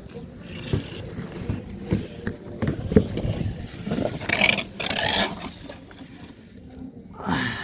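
Irregular scraping and light knocks from someone working under a car, with a couple of louder rustling scrapes about two thirds of the way in.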